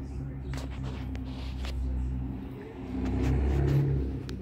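A car engine running with a steady low hum, swelling louder for about a second around three seconds in, with a few light clicks over it.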